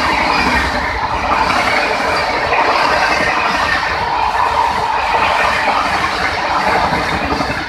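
Indian Railways passenger train running along the track: a loud, steady rush and rumble of wheels on rails.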